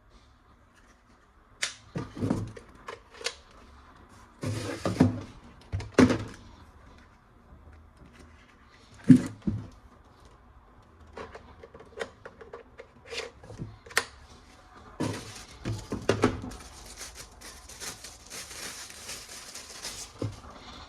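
Hard plastic toy gun parts being handled: irregular clicks, knocks and short rattles. From about three-quarters of the way in there is a steady rustling hiss, like plastic packaging.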